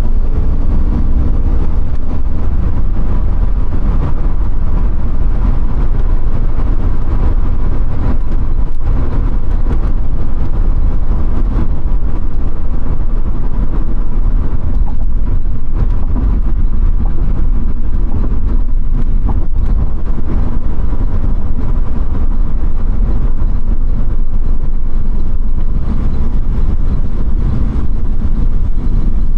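1996 Chevrolet Impala SS on the move: its 5.7-litre LT1 V8 and the road noise make a loud, steady low rumble, with a brief rising engine note about a second in.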